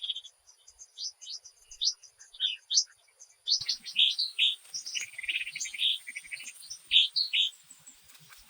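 Small birds chirping in a quick run of short, high chirps. About three and a half seconds in, the background changes abruptly and busier, somewhat lower chirping takes over with a faint hiss behind it.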